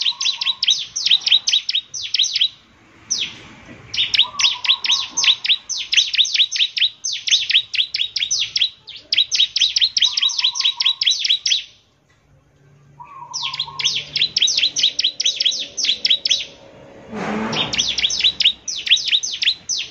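Bar-winged prinia (ciblek) singing hard, rapid runs of sharp repeated high notes, each run about a second long with short breaks between, and a short lower note every few seconds. A brief noise cuts across the song near the end.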